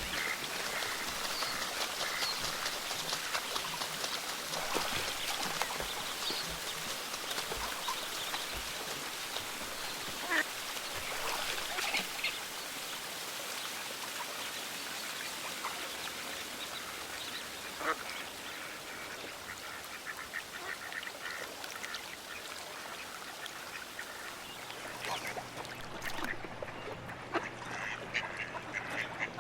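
Ducks quacking, many short calls scattered over a steady hiss; near the end the high hiss drops away, leaving scattered calls.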